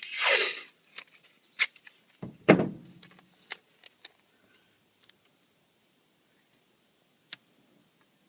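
Tape being pulled and torn off a roll in two short rasping rips, one at the start and one about two and a half seconds in, followed by a few faint handling clicks.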